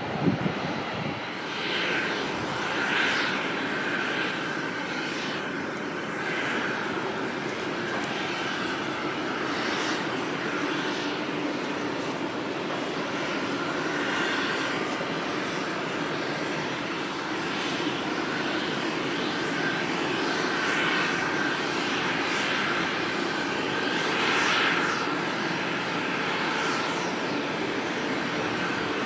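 Airliner engines running steadily, a continuous rushing noise with a thin high whine held throughout.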